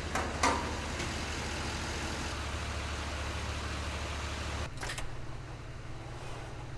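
A vehicle engine idling with a steady low hum. About two-thirds of the way in the hum drops and changes, and a sharp click follows.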